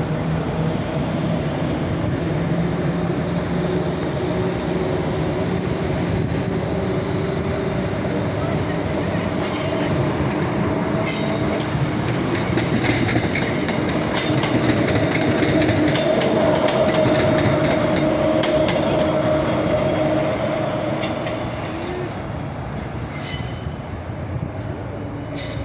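A train running past on the rails, with a steady hum and the wheels clicking over rail joints through the middle. It is loudest a little past halfway and fades slightly near the end.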